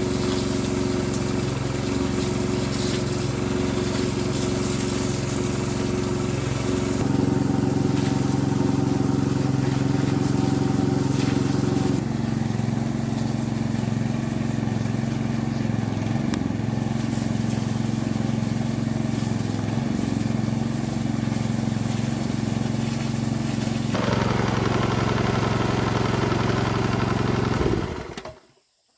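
A small engine or motor running steadily at a constant pitch, with abrupt shifts in its tone a few times, then fading out quickly near the end.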